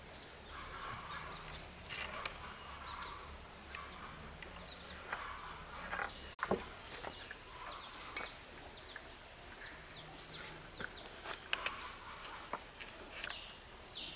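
Faint outdoor ambience with small birds chirping in short, scattered calls, and a few light knocks.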